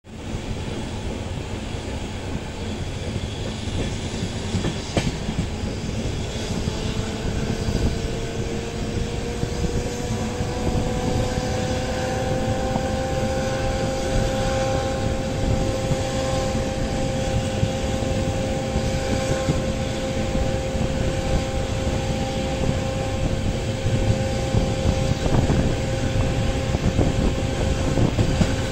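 Train running on the rails: a steady rumble of wheels on track with a whine that rises in pitch over the first quarter-minute and then holds steady, and occasional clacks over rail joints.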